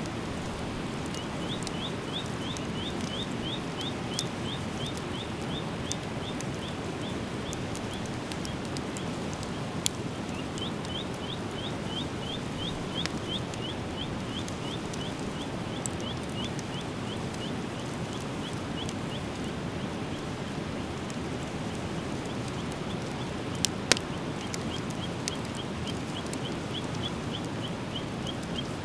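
Driftwood fire burning with a steady rushing hiss and a few sharp pops and crackles, the loudest about ten seconds in and twice near 24 seconds. A bird repeats a quick, high chirp about four times a second in long runs over it.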